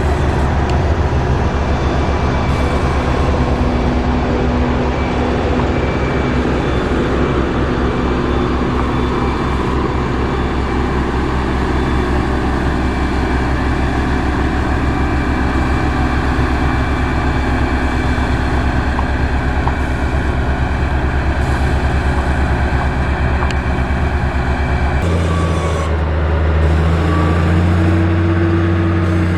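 Heavy diesel construction machinery running steadily under load, a dense low engine sound with a rapid pulse. About 25 seconds in it changes abruptly to a different machine's engine note, whose pitch rises slightly near the end.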